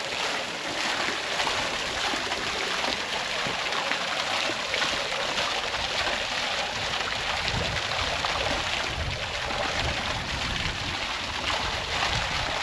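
Steady rush and splash of falling water at a water mill's wheel.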